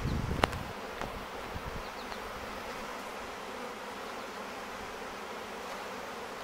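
Honey bee swarm buzzing: a steady, dense hum of many bees in flight. A sharp click comes about half a second in.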